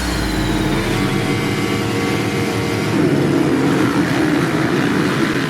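Motocross motorcycle engines running, growing a little louder about halfway through.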